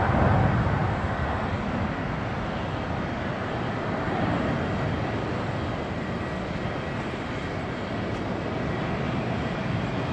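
Jet airliner taking off, its engines a broad rumble and hiss that is loudest in the first second, then settles lower and steady as the aircraft climbs away.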